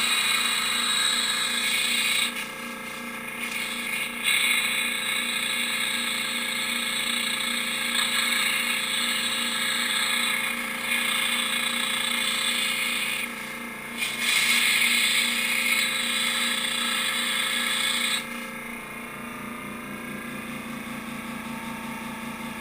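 Air compressor running with a steady, pulsing hum, while compressed air hisses in several long blasts that stop and start, the last ending near the end. The air pressure is being used to push stuck pistons out of a motorcycle brake caliper.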